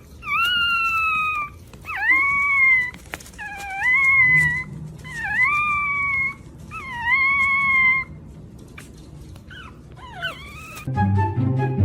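A puppy howling: five long, high-pitched howls, each rising at the start and then held, followed by a few short yelps. Music starts near the end.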